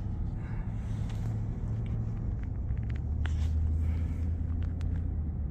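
Steady low rumble of a pickup truck driving, heard from inside the cab: engine and road noise, with the low hum shifting slightly about three seconds in.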